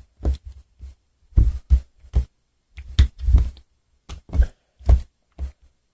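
Homemade slime being squished and poked close to the microphone: about a dozen short, irregular squishes and pops.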